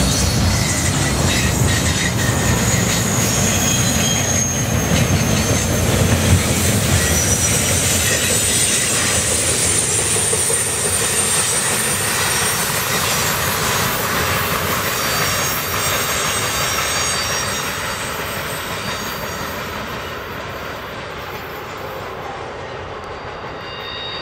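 Double-stack intermodal container well cars of a freight train rolling past, the wheels rumbling on the rails with thin, high-pitched wheel squeal. The sound fades steadily over the last several seconds as the end of the train goes by and draws away.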